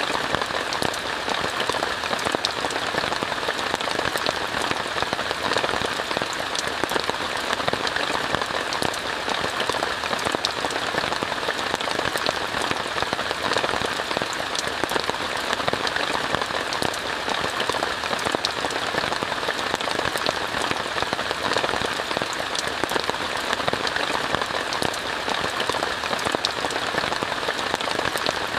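Steady rain pattering on a tent, heard from inside: an even hiss of rainfall dotted with many sharp individual drop ticks.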